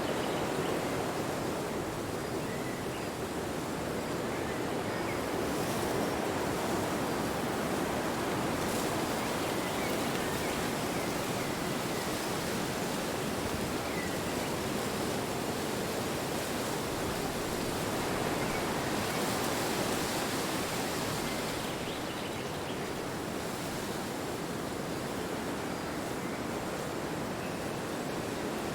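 Wind blowing: a steady rushing that slowly swells and eases.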